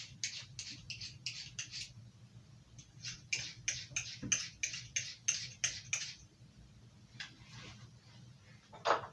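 Carving knife being sharpened: the blade is drawn across the sharpening surface in quick, short, scratchy strokes, about four a second, in two runs with a pause between. A few sparser strokes follow, then a couple of louder ones near the end.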